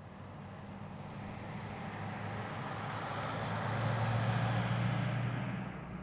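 A road vehicle passing by: its tyre and engine noise swells, is loudest about four to five seconds in, then fades.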